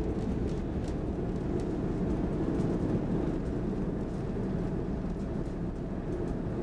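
Interior of an SL X10 electric commuter train under way: a steady low rumble of wheels on rails, with a faint steady hum above it.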